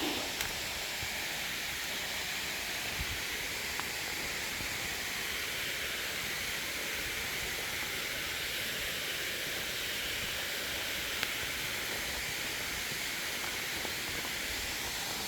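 Steady rushing hiss of creek water spilling over an old mill dam, with a few faint ticks.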